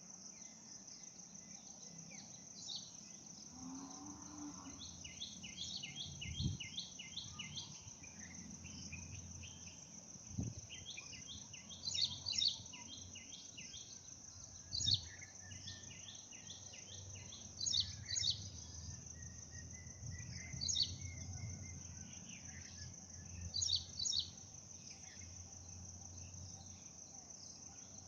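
A steady high-pitched drone of crickets, with birds calling over it: quick runs of short repeated notes, and sharp paired chirps about every three seconds, which are the loudest sounds.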